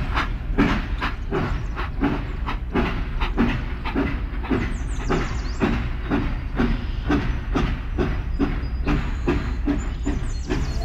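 Train running on its track with a steady, even clickety-clack of about three clicks a second over a low hum.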